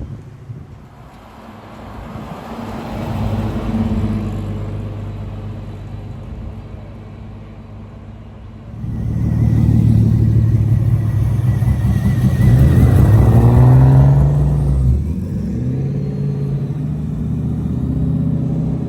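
Muscle car engines. One car's engine swells and fades in the first few seconds. A louder one comes in close about halfway through, climbs in pitch as it accelerates, then drops back to a steady low run.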